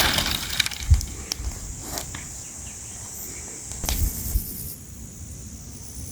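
A few dull thumps and sharp clicks with some rustling, mostly in the first half, over a steady high hiss.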